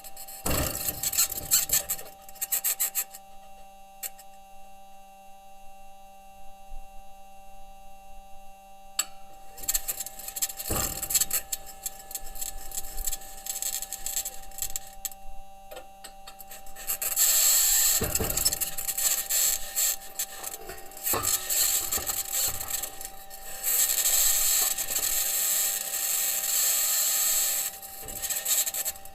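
Perseverance rover's six metal wheels grinding and scraping over the rocky Martian ground, picked up by its entry, descent and landing microphone. Two steady whining tones run underneath, with scattered knocks and long stretches of loud, high scratchy hiss in the second half.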